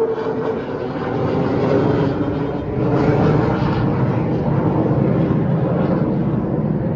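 F-22 Raptor fighter jet passing overhead, the loud, steady roar of its twin Pratt & Whitney F119 turbofan engines filling the air.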